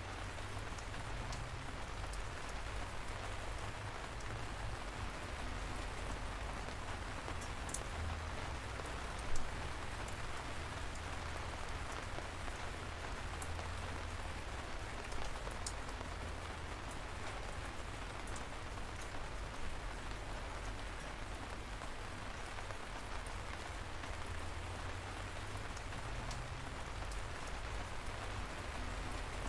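Light rain falling steadily, with scattered drops ticking on a surface and one louder drop hit about nine seconds in.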